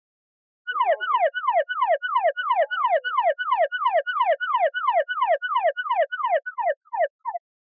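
Electronic alarm-like sound effect: a rapidly repeated falling tone, about three to four sweeps a second, with a steady high tone held over it. It starts about a second in and cuts off suddenly near the end.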